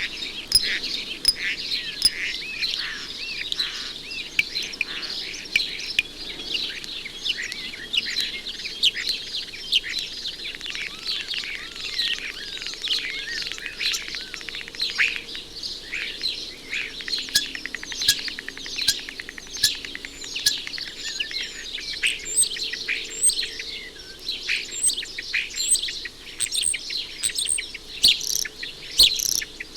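Common starling singing a long, varied song of whistles, chirps and warbles that includes imitations of other sounds, with sharp clicks from the bird rattling its bill on a chimney pot.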